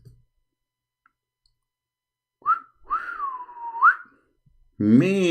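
A person whistling in admiration: a short rising note, then a longer note that sinks and swoops sharply up at its end. A man's voice starts near the end.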